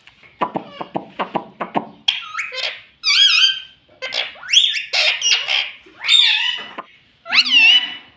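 Pet parrot chattering in quick pulses, then giving a series of loud, shrill, wavering whistles and squawks that glide up and down in pitch.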